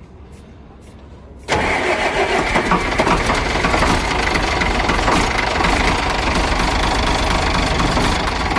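FAW 280 truck's rebuilt diesel engine starting: it fires abruptly about a second and a half in and then runs loud and steady with diesel clatter.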